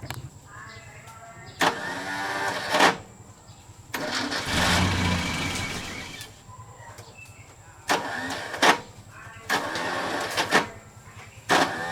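Diesel engine of a road roller running with a steady low, rapid pulse, broken by several abrupt louder bursts of noise lasting about a second each.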